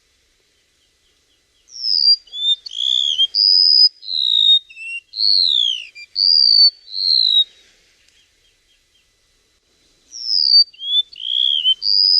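Flowerpecker (Vietnamese 'chim sâu') singing a lure song for bird trapping: a quick run of high, sweet whistled notes sliding up and down. The song starts about two seconds in, pauses for about two seconds in the middle, then starts again near the end.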